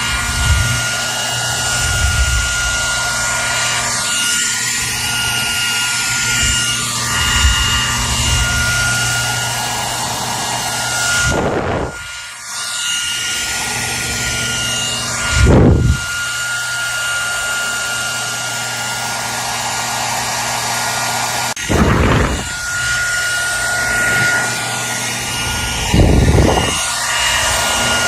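Hair dryer running continuously: a steady rush of air with a high motor whine and a low hum, the tone of the rush drifting up and down. Four times, around the middle and later on, a brief low rumble of air swells up.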